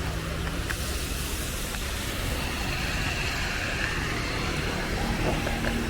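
Street traffic: a steady low rumble of a motor vehicle running, with a hiss that rises about a second in.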